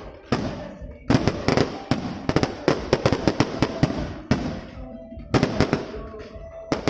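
Fireworks going off in rapid volleys of sharp bangs and crackles, with a short lull about four and a half seconds in before another volley.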